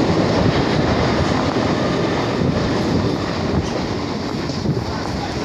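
Mumbai suburban electric local train running on the rails, heard from aboard: a steady rumble of wheels on track as it passes through a rock tunnel and comes out into the open, easing off slightly once outside.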